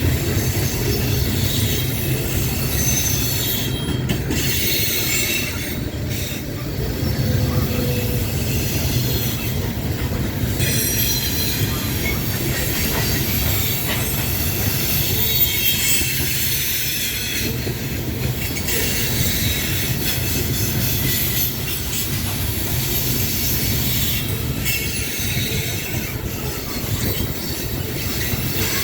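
Loaded coal hopper cars of a freight train rolling past on a curve: a steady rumble of wheels on rail, with high-pitched wheel squeal that comes and goes.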